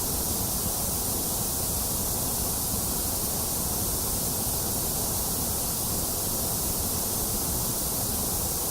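Steady generated white noise, an even hiss that never changes, heaviest in the low rumble and the top hiss with a thinner middle.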